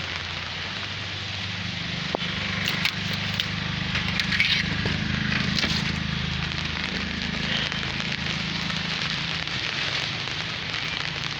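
Steady rain falling, a dense crackly patter of drops, with a low steady hum underneath.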